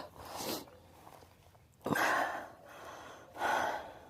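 A woman breathing hard and out of breath from exertion, with three heavy, noisy breaths about a second and a half apart.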